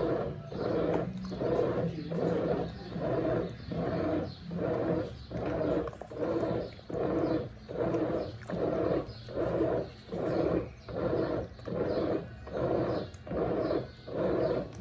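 Brastemp Eggo 1 kg mini washing machine in its wash cycle, its motor driving the pulsator back and forth in even strokes, about one and a half a second, churning the water and clothes over a steady motor hum.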